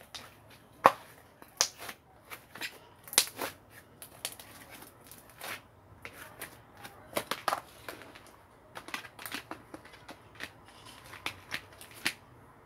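Irregular light clicks and taps, a few each second, from small objects being handled.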